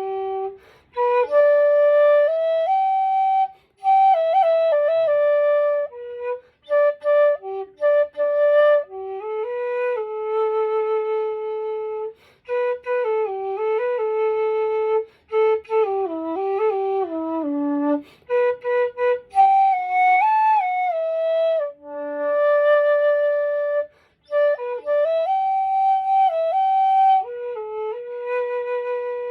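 Nanxiao, a G-pitched end-blown bamboo vertical flute, playing a slow melody solo with no accompaniment. It moves in short phrases of held and stepping notes, broken by brief pauses for breath.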